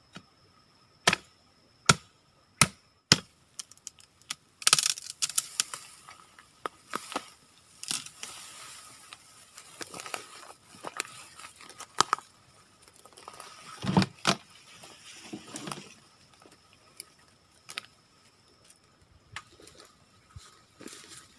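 Four sharp chopping strikes a little under a second apart, then a long spell of crackling and rustling as branches and leaves are handled, with one heavier knock about fourteen seconds in.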